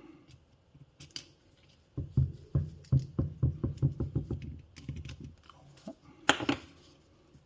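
Hand tool tightening a casing screw on a Mahle e-bike motor: a run of quick ticks, about three a second, for some three seconds. A single louder rattle follows near the end.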